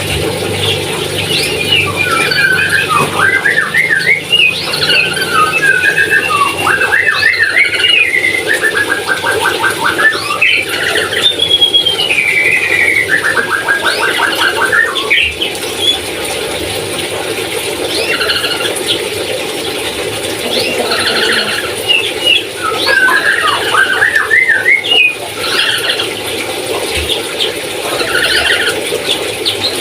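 Lory (parrot) calling: a run of squeals, gliding whistles and rapid rattling trills, coming and going throughout.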